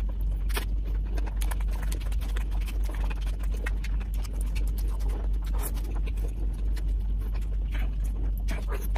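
Close-miked eating sounds: irregular wet clicks and lip-smacking from chewing a mouthful of biryani. A steady low hum runs underneath.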